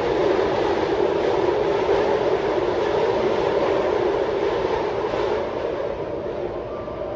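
Taipei Metro Bannan Line train running, a steady rumble of wheels on rail that eases slightly in level near the end.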